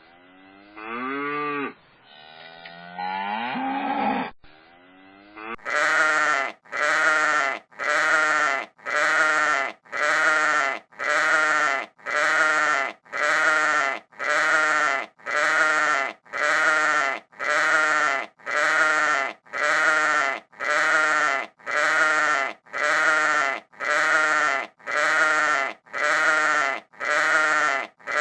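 Goat bleating: two long, wavering bleats, then one short bleat repeated at an even pace of about one a second, each repeat identical as if looped.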